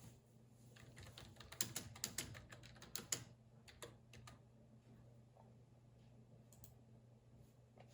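Typing on a computer keyboard: a quick burst of keystrokes from about one and a half to three seconds in, then a few scattered taps, over a faint steady low hum.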